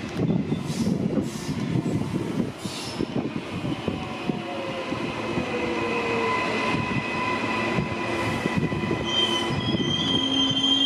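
Queensland Rail electric multiple-unit passenger train running along the platform road, its wheels rumbling and clattering on the track. From about the middle, high steady squeals from the wheels come in and grow louder towards the end.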